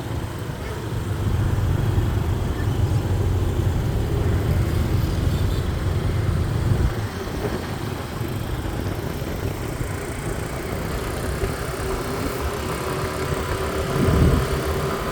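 Motorbike engine and city street traffic heard while riding: a steady low rumble, heavier in the first half, with a steady higher-pitched tone joining near the end.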